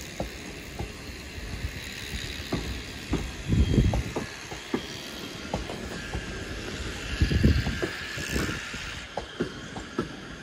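ScotRail Class 385 electric multiple unit rolling slowly into a terminus platform, its wheels clicking and knocking irregularly over rail joints and points, with two heavier low rumbles about four and seven and a half seconds in.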